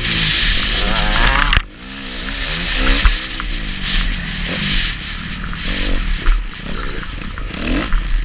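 Motocross bike engine revving up and down over and over as the throttle is worked. It drops away sharply about one and a half seconds in, then climbs again.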